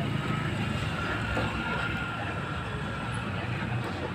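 Tanker truck diesel engine running with a steady low drone, with a faint high whine that comes in about a second in and fades after about two seconds.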